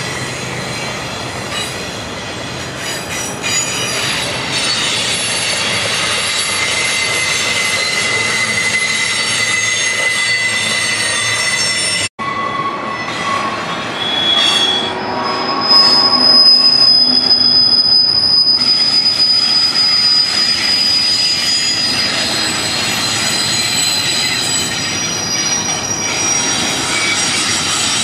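Double-stack intermodal freight train rolling past, its wheels squealing against the rails in long, steady high-pitched tones that start and stop over a rumbling, hissing bed. The sound cuts out for an instant near the middle.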